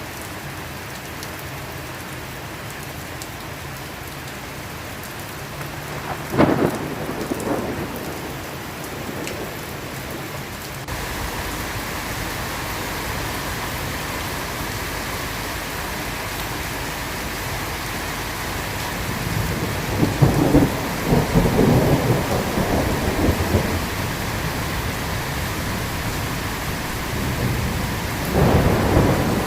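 Steady rain with thunder: a sharp clap about six seconds in, a long rolling rumble past the middle, and another clap starting near the end. The rain turns abruptly louder and fuller about a third of the way in.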